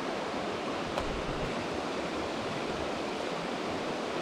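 Mountain stream water rushing steadily, with a single small click about a second in.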